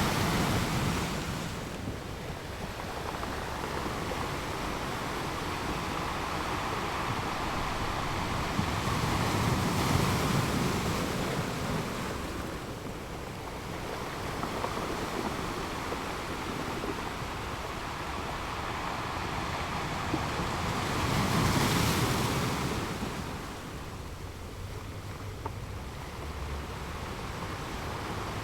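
Ocean waves rolling onto a shore: steady surf noise that swells into three breakers, near the start, about ten seconds in and about twenty-two seconds in, each ebbing away after.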